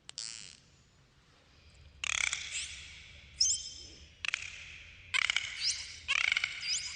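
Dolphins vocalising: a short burst at the start, then from about two seconds in a string of loud buzzing pulse bursts with quick rising whistles, roughly one a second.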